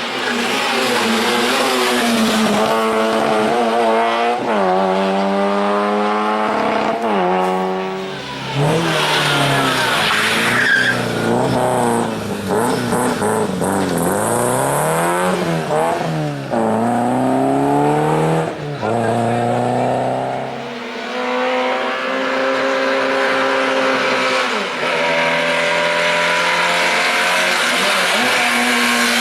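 Car engine accelerating hard, its pitch climbing and dropping back again and again as it runs through the gears and revs up and down.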